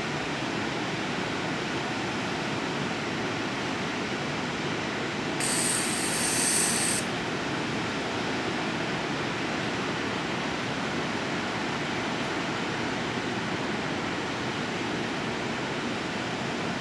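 Steady rushing rumble of a train rolling through a station, with a brief high-pitched hiss about five seconds in.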